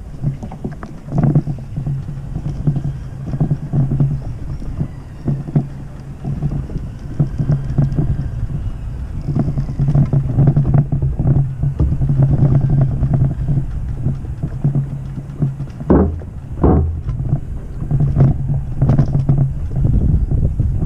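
An engine running steadily with a low drone, with scattered short knocks over it.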